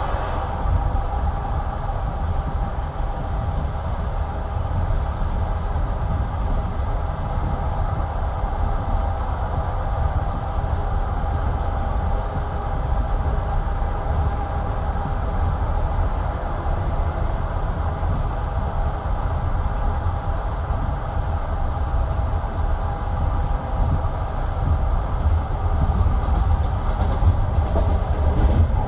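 Steady low rumble of a train heard from inside a passenger carriage, with a constant hum over it and no distinct wheel clicks.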